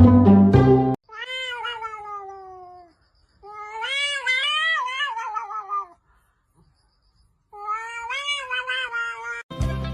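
A cat meowing three times in long, drawn-out calls: the first slides down in pitch, the second wavers up and down. Music plays for the first second and comes back just before the end.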